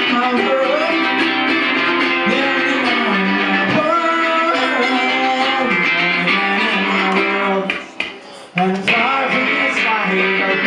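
Rock band music led by electric guitar, strummed chords with some singing. It drops out briefly about eight seconds in.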